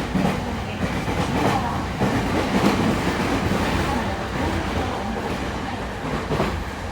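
Cabin running noise of a JR East E217 series commuter train under way: a steady rumble with wheels clattering over the rail joints.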